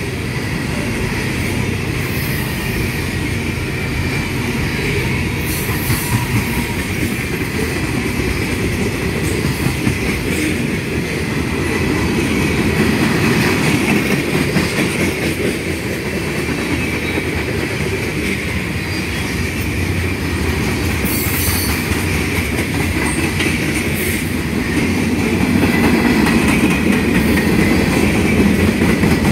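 Freight cars of a long freight train rolling past close by: a steady rumble and clatter of steel wheels on the rails, with a thin high wheel squeal underneath and a few sharp clanks.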